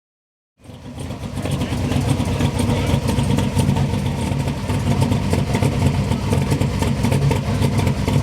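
Drag-racing vehicle's engine running steadily at a loud idle. It cuts in after a moment of silence and builds over the first second.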